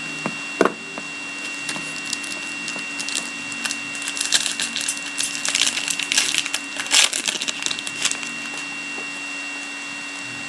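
Foil trading card pack being torn open and the cards handled, a dense crinkling crackle that builds about four seconds in and stops near eight seconds.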